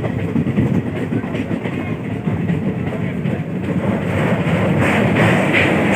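Passenger train running at speed, its wheels clattering and rumbling on the rails, heard from an open window. About four seconds in the sound grows louder and harsher as the coach rolls onto a steel truss bridge.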